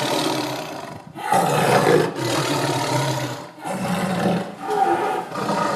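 Leopard roar sound effect: several big-cat roars in a row, each broken off by a short pause.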